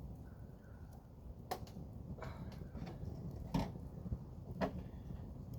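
Campfire burning with a low steady rumble and a handful of sharp pops and snaps from the burning wood, the loudest about halfway through.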